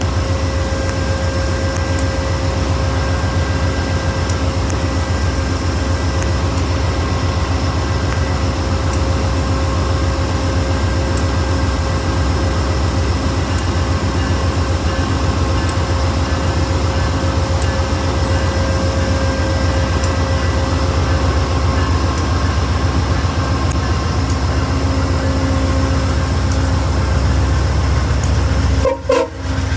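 Via Rail GE P42DC diesel-electric locomotive running steadily: a deep, even engine rumble under a constant whine. The sound briefly drops out about a second before the end.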